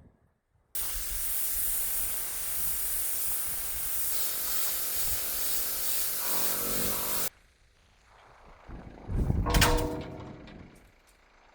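A steady loud hiss, like air or spray under pressure, starting and stopping abruptly and lasting about six and a half seconds; a pitched tone joins it in its last second. A couple of seconds later comes a short, loud burst of sound with a ringing tone in it.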